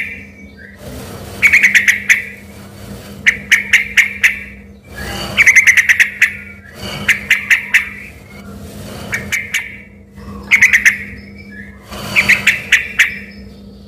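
Yellow-vented bulbul (trucuk) singing in short, loud, rapid phrases, about one every two seconds, in a gacor song that passes for a white-rumped shama's. A faint steady low hum lies underneath.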